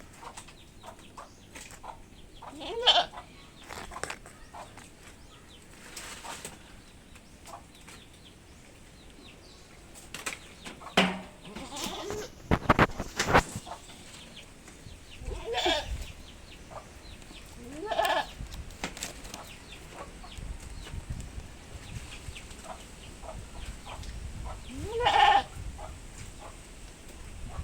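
Goats bleating, about four separate calls spread apart, with a short run of knocks in the middle.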